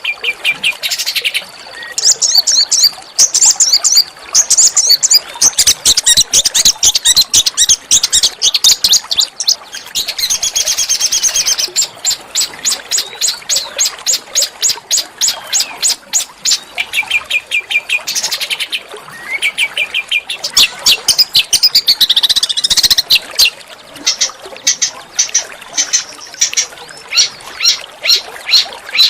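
A small songbird's harsh, rapid song: fast strings of high, sharp notes and trills, broken by short pauses. It is the kind of recording played as 'masteran' to teach and provoke singing in caged songbirds such as magpie-robins.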